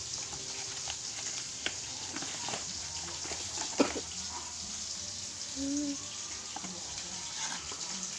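Plastic packaging crinkling and rustling as products are unwrapped, with scattered small clicks and one sharper click a little under four seconds in.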